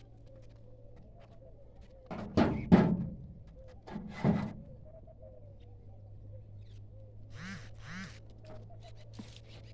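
Kumawat goats bleating: two loud bleats about two and four seconds in, then two fainter, shorter calls near the end.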